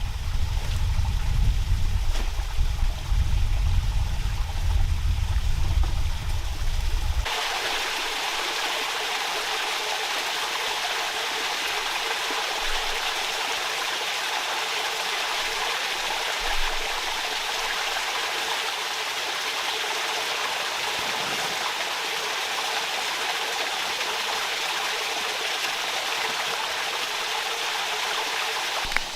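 Steady rushing of a forest stream. For the first seven seconds a heavy low rumble lies under it, then it cuts off abruptly and only the even rush of water remains.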